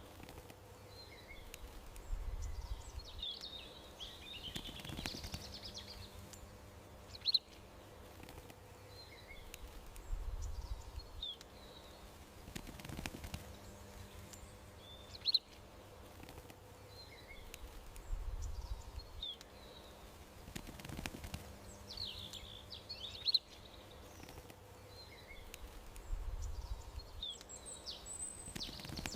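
Songbirds chirping in short high calls and brief twittering runs over a faint steady outdoor background, the same pattern of calls repeating about every eight seconds.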